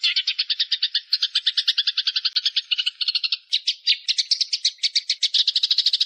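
A small songbird's rapid chattering trill of sharp chip notes, about a dozen a second. About halfway through it shifts to higher, more spaced notes, then quickens into a denser trill near the end.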